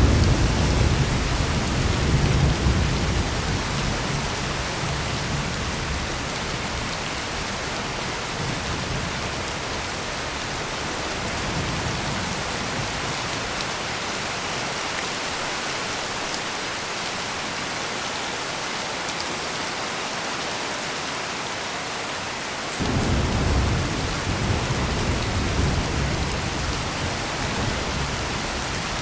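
Heavy rain pouring steadily with rolling thunder. A low rumble fades over the first few seconds, a fainter one comes about twelve seconds in, and another starts suddenly about three-quarters of the way through and slowly dies away.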